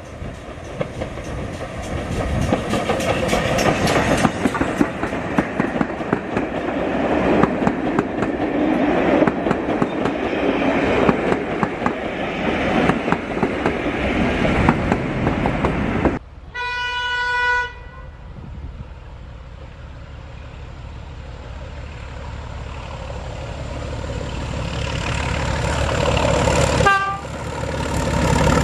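A heritage-railway train passes with loud, rhythmic clattering. About halfway through, a single horn or whistle blast of a little over a second sounds. A steady low locomotive engine drone follows, growing louder as it nears, with another short horn sound near the end.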